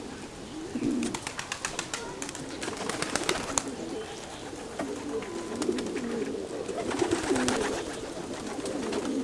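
Pigeons cooing, low warbling coos repeating throughout, with a run of sharp clicks between about one and four seconds in.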